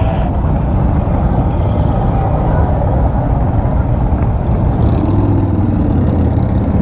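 Motorcycle riding along: engine running under heavy wind rush on a helmet-mounted microphone. About five seconds in, a steadier engine hum comes up for a second or so.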